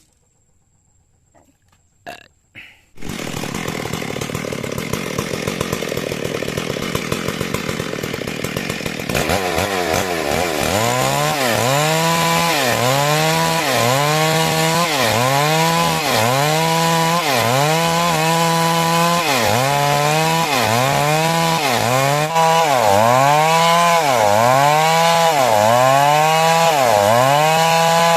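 Chainsaw engine starting up about three seconds in and running. From about nine seconds its pitch dips and recovers over and over, roughly once a second, as the saw cuts timber lengthwise into rafters.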